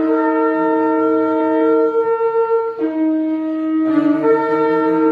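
Shofar (ram's horn) blown in long, loud held blasts, broken briefly just under three seconds in and again about four seconds in before sounding on.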